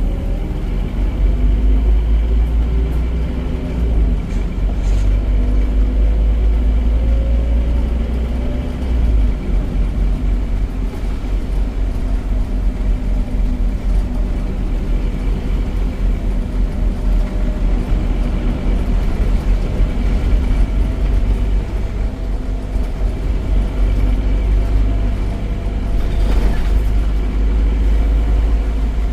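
Scania Omnicity bus's DC9 9.3-litre five-cylinder diesel engine running under way through its ZF automatic gearbox, a loud, steady low rumble whose pitch rises and falls as the bus drives.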